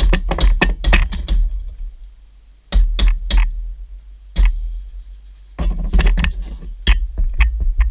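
Irregular bursts of sharp knocks and clicks with heavy low thumps, from a metal bracket being handled and screwed into place while a shelf is fitted. They come in three clusters, with pauses of about a second between them.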